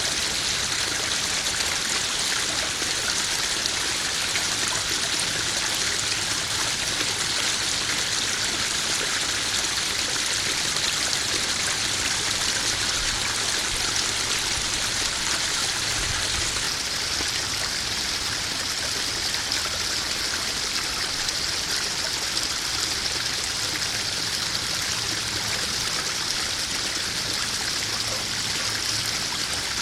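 Small garden koi pond waterfall: water splashing and trickling steadily into the pond.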